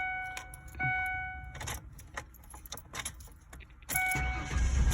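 A 2002 Ford Explorer's dashboard warning chime sounds in short repeated tones, with key clicks in between. About four seconds in, a low engine rumble rises as the engine is turned over. The fuel pump has just been repaired, but a kink in the patched fuel line keeps it from holding enough pressure to stay running.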